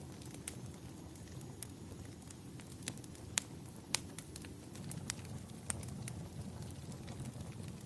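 Wood fire crackling in a fireplace: irregular sharp pops and snaps over a low, steady rumble, with two louder pops a little past the middle.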